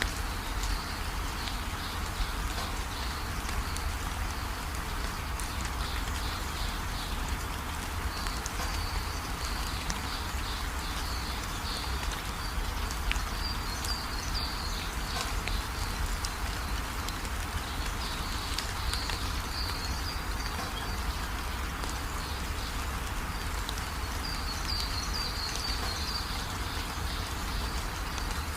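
Steady rain falling, an even hiss with a deep low rumble beneath it, while high chirping trills come and go over it.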